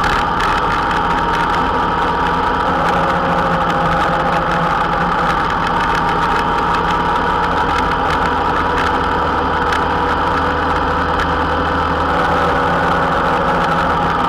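Honda Interceptor 700's V4 engine running at a steady pitch while the motorcycle holds an even cruising speed.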